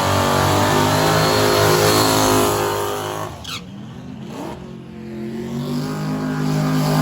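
Drag-racing engine running loud at a steady pitch, dropping away sharply about three and a half seconds in; after a quieter stretch with a short rising whine, a loud engine at a steady pitch returns about five seconds in.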